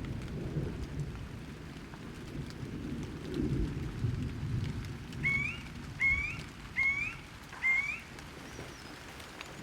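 Thunderstorm ambience: a steady low rumble of thunder and rain. In the second half a bird gives four short, rising whistled calls, about a second apart.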